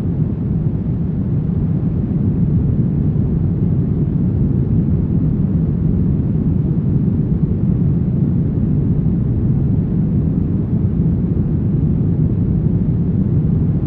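Brown noise: a steady, deep rumbling hiss, loudest in the low end and fading toward the highs, with no change in level.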